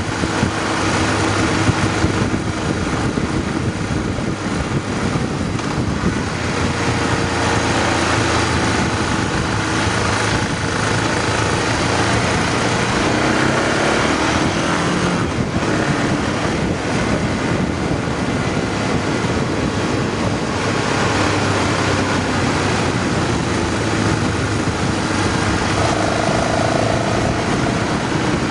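Motorcycle engine running at road speed, with a steady rush of wind noise over it; the engine note shifts in pitch about halfway through.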